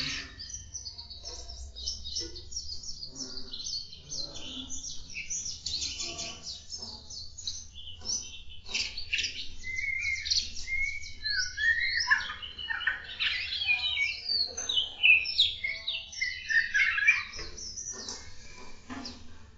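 Captive birds in an aviary chirping and singing together: a dense run of short high chirps, joined about halfway through by lower sliding whistled phrases.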